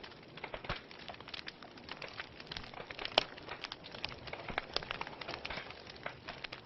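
Wood fire in a fireplace crackling, with irregular snaps and pops over a soft hiss; one sharp pop about three seconds in is the loudest.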